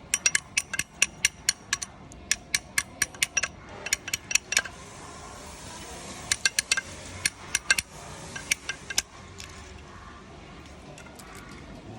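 Runs of sharp metallic clicks, several a second, each with a brief ringing tone, from a hand tool working on metal parts. The runs stop and start a few times and die away after about nine seconds.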